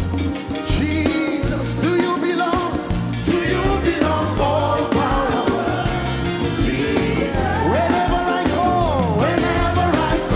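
Gospel worship music with singing over a band, with a steady bass line and regular drum beats.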